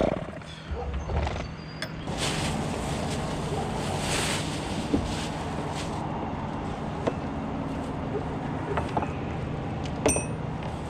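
Bucket truck engine running steadily at idle, with a few sharp clicks and two short rustling swells over it.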